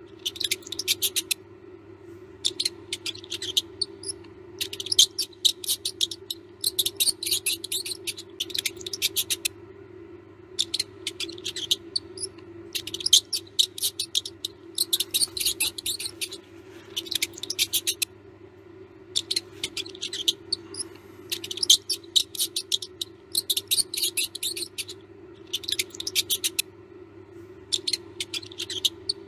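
Mouse squeaking in repeated bursts of rapid high-pitched chirps, each about a second long with short pauses between, over a steady low hum.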